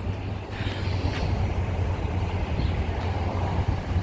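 2012 Nissan Titan's 5.6-litre V8 idling with a steady low hum.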